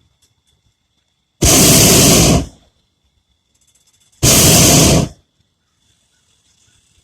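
Hot-air balloon's propane burner firing in two blasts of about a second each, separated by a few seconds.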